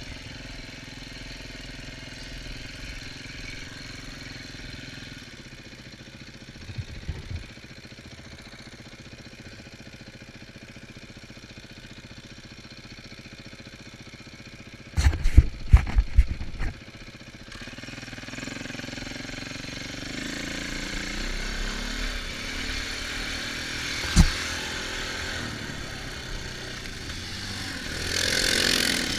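Off-road vehicle engines running. A cluster of sharp knocks comes about halfway through, and the engine sound grows louder through the second half, loudest near the end.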